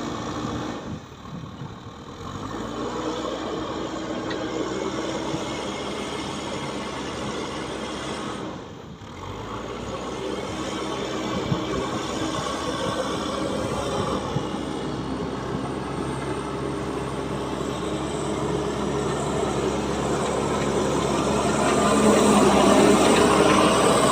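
Heavy diesel machinery engine running steadily, getting louder over the last few seconds.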